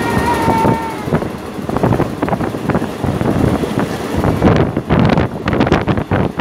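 A moving passenger train running along the track, a continuous noisy roar with rapid clattering and rattling, and wind buffeting the microphone. A steady high tone stops about a second in.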